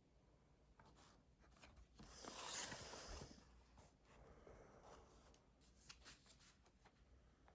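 Faint writing on paper, with short scratchy strokes, and a louder rustle of paper about two seconds in.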